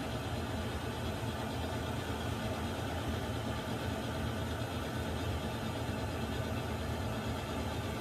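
Water heater running with a steady low rumble under an even hiss, unchanging throughout.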